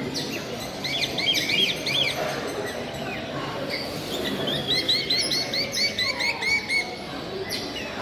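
Caged birds chirping over steady background hall noise: a short cluster of chirps about a second in, then a quick, even run of about a dozen chirps in the second half.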